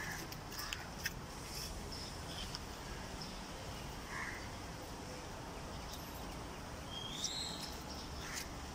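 Quiet outdoor background with a few soft clicks in the first second or so, a faint chirp around four seconds in, and a short rising bird call about seven seconds in.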